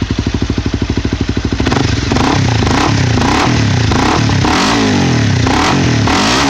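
2012 Honda CBR250's single-cylinder engine running through a Yoshimura slip-on exhaust with its silencer insert fitted: idling with a steady pulse, then revved in quick repeated throttle blips from about two seconds in.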